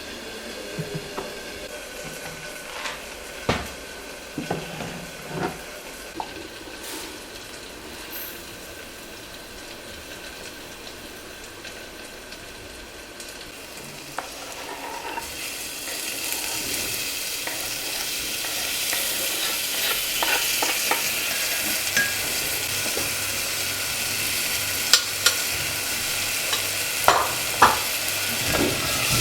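Food frying in a pan on the stove, with a utensil stirring and tapping against the pan. About halfway through, the sizzling grows louder and keeps building, with a few sharp taps near the end.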